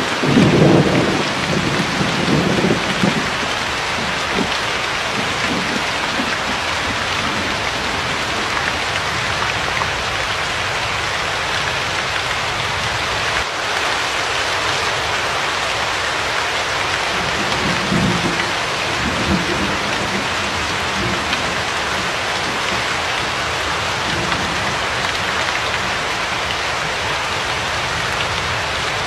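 Steady rain falling in an even hiss, with low rumbles of thunder, the loudest in the first few seconds and another about two-thirds of the way through.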